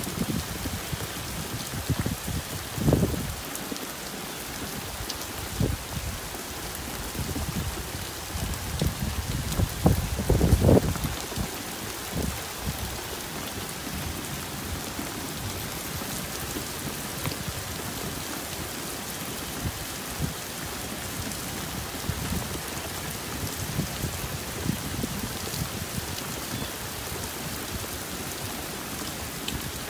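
Steady summer rain falling, with brief low rumbles about three seconds in and again, louder, around ten to eleven seconds in.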